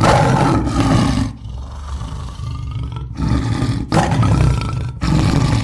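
Tiger roaring: a long loud roar, then a lower rumbling growl, then a run of shorter roars from about three seconds in.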